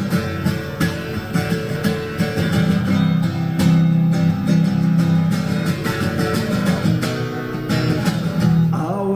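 Instrumental break of a folk-style song, led by a strummed acoustic guitar, with chords held under a steady strumming rhythm.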